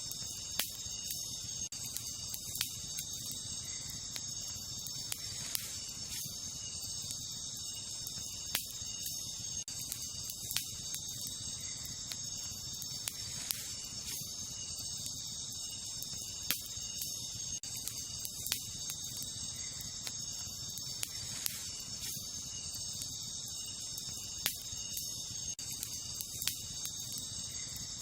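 Wood campfire crackling, with sharp pops every couple of seconds, over a steady high-pitched chorus of night insects.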